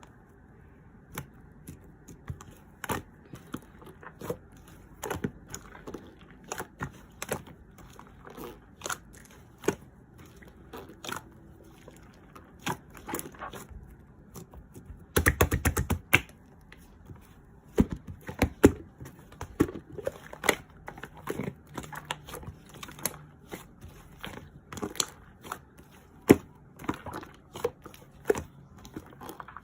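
Slime being squished and stretched by hand, giving irregular sticky clicks and pops, with a dense run of rapid pops about fifteen seconds in.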